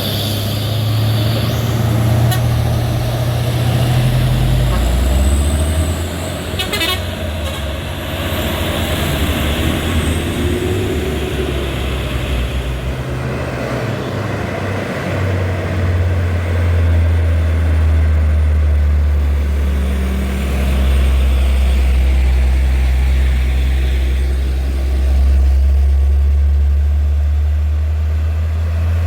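Heavy truck's diesel engine running, its deep note shifting up and down in pitch several times.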